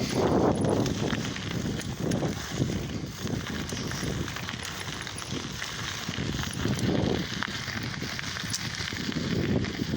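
Riding noise from a lowrider bicycle in motion, a rumbling rush that swells and eases about once a second.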